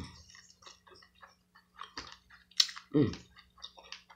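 Close-up chewing and wet mouth clicks of a person eating butter-sauced corn on the cob, in short irregular smacks, with a brief falling hum of the voice about three seconds in.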